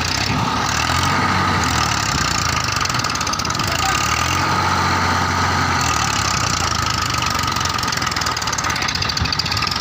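Massey Ferguson 1035 DI tractor's three-cylinder diesel engine running steadily at idle.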